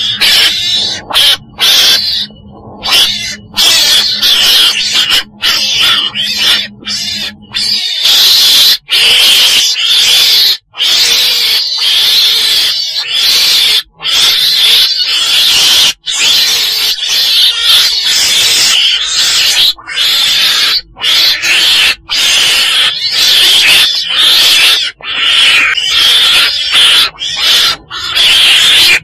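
Recorded calls of the chồn đèn, a small weasel-family animal, of the kind played as a trapping lure: loud, high-pitched calls following one another quickly with brief breaks. A low steady hum underneath stops about eight seconds in.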